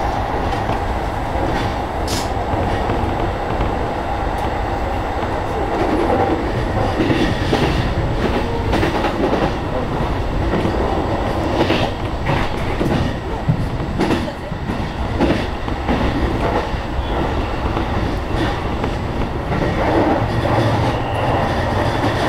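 E233-series electric commuter train running at speed, heard from inside the train behind the driver's cab: a steady rumble of wheels on rail with irregular clacks over the track.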